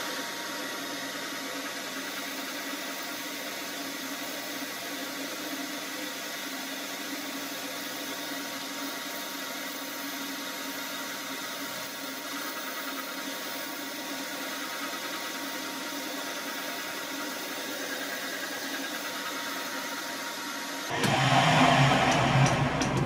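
Metal lathe running steadily while boring the internal lip-seal register of a bearing end cover, taking the final cut to size. The sound grows louder near the end.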